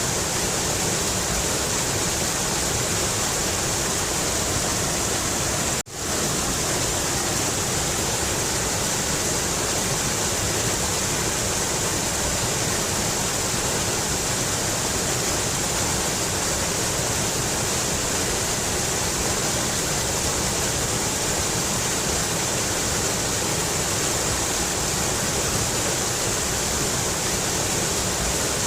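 Mountain river rushing steadily, a dense even noise of running water that cuts out for an instant about six seconds in.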